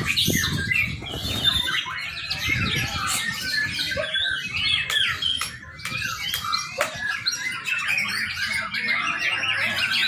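Young white-rumped shama singing: a fast, unbroken run of varied chirps, whistles and warbles.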